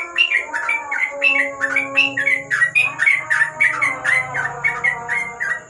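Yellow-vented bulbul (trucuk) singing a fast, unbroken run of chirping notes, about five a second, with a steady thin high whine behind it.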